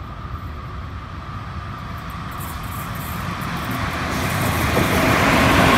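An E656 electric locomotive coupled with D345 and D445 diesel locomotives, running as a light-engine movement and approaching along the track. Its rumble grows steadily louder, with rail clatter building from about halfway through.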